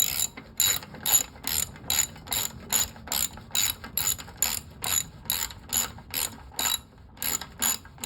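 Ratchet wrench with a 13 mm socket clicking in quick, even strokes, a little over two a second, with a short pause near the end, as a carburetor mounting bolt is run down.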